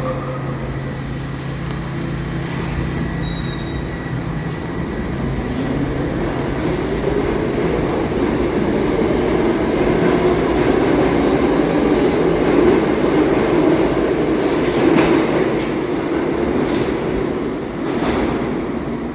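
New York City subway train running on the rails: a rumbling rush of wheel and track noise that swells from about five seconds in and holds, with a couple of sharp clicks near the end.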